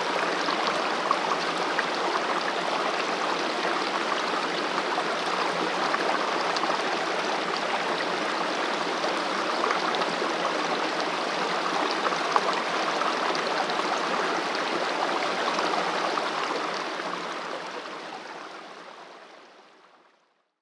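Valley stream flowing steadily, an even rush of running water that fades out over the last few seconds.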